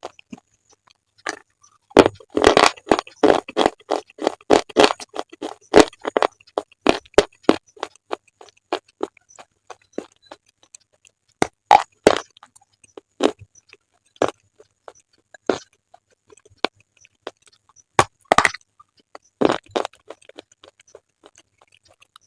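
Close-up crunching of slate being bitten and chewed: a dense run of sharp crunches for several seconds, then fewer crunches spaced out with short pauses.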